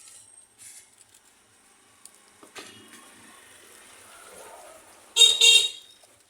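Small metal parts and tools handled on a workbench: light clicks and rustling, then a short, loud metallic clatter with a ringing edge about five seconds in.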